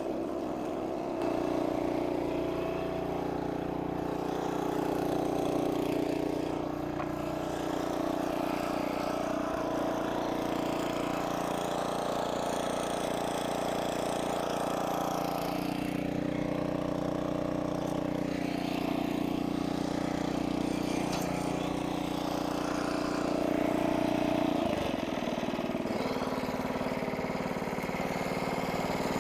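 An engine running steadily, its pitch shifting a little about halfway through and dipping briefly near the end.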